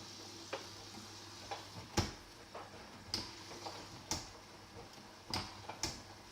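Hotpoint washing machine running a quick wash, a steady low hum under irregular sharp clicks and knocks about once a second, the loudest about two seconds in.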